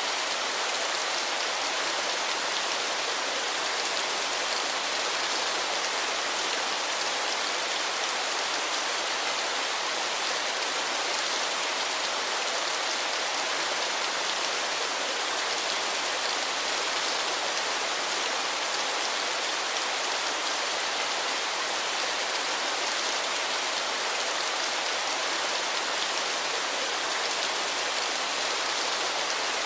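Waterfall: steady, unbroken rushing and splashing of falling water, a constant hiss weighted to the higher range with little bass.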